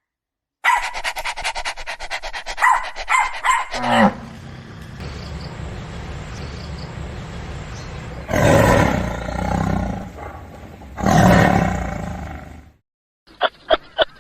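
A large wild animal roaring twice over a low rumble. A rapid rasping, pulsing sound comes first, and a short run of quick calls comes near the end.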